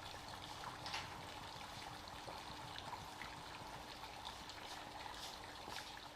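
Faint campfire cooking sounds: a steady watery hiss from the simmering pot and fire, with a few sharp crackles, about a second in and again near the end.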